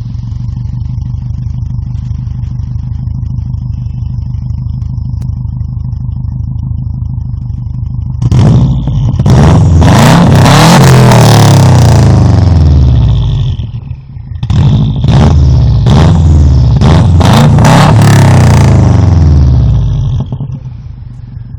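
Subaru car's exhaust: the engine idles steadily, then is revved twice, about eight seconds in and again around fourteen seconds in. Each time it is held high for several seconds, its pitch rising and falling, before dropping back to idle.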